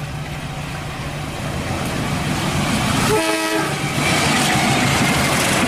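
KAI CC 201 diesel-electric locomotive hauling a passenger train past, its engine and wheel noise growing louder as it nears. A short horn blast sounds about three seconds in.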